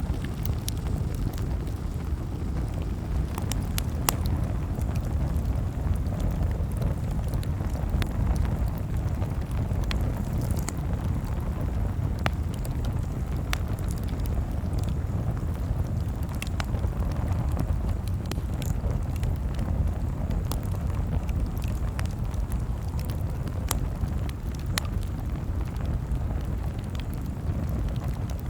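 Campfire crackling: scattered sharp pops and snaps, a few every second or two, over a steady low rumble.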